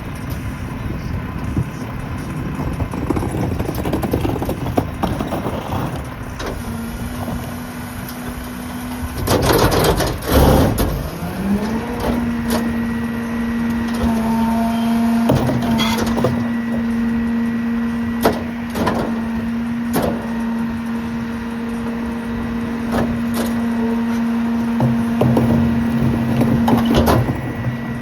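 Mack diesel garbage truck engine revving up and holding a steady raised note to drive the Heil PowerTrak rear loader's hydraulic packer, while the packer clanks and bangs through the trash. A loud burst of clattering comes about ten seconds in, just before the engine note rises, and the note drops near the end.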